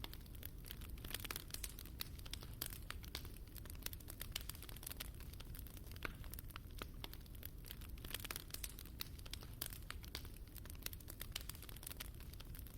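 Wood fire burning in a fireplace, crackling with many irregular sharp snaps and pops over a low steady rumble.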